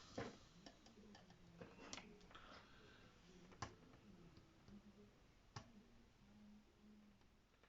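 Faint, scattered clicks of small hand tools and a soldering iron tip against wires and the ring light's plastic while the wires are being desoldered.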